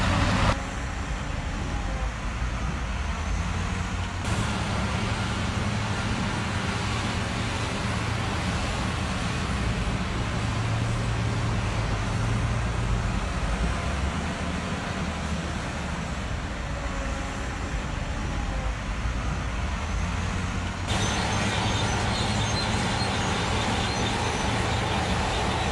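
Truck engine running with a steady low hum, its sound changing abruptly about half a second in, about 4 seconds in and about 21 seconds in.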